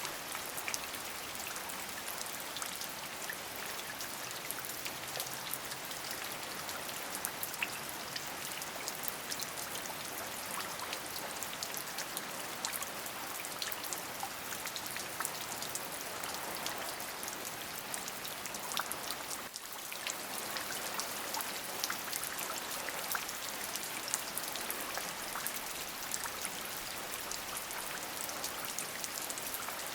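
Steady rain, with many separate drop hits heard through it and a brief drop in level about twenty seconds in.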